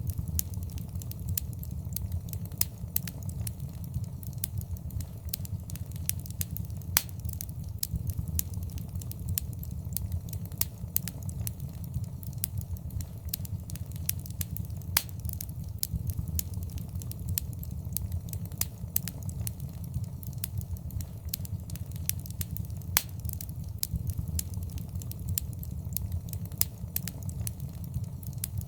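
Wood fire in a fireplace crackling: a steady low rumble of burning with frequent irregular sharp pops and snaps.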